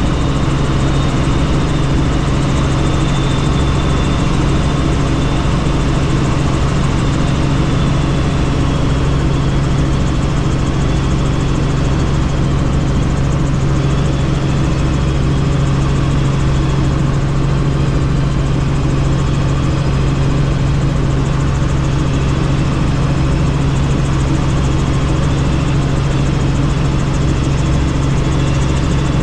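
Helicopter engine and rotor noise heard from on board in flight: a loud, steady drone with a strong low hum.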